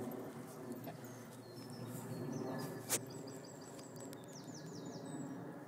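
Outdoor park ambience of songbirds chirping, with a fast run of repeated high chirps from about three to five seconds in, over a low steady background noise. A single sharp click about three seconds in.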